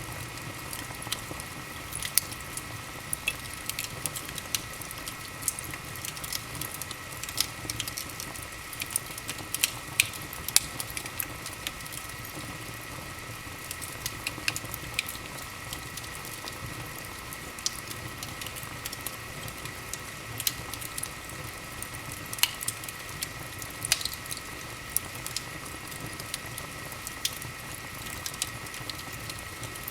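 Wood fire crackling in a fireplace: irregular sharp pops and snaps, some louder than others, over a steady hiss.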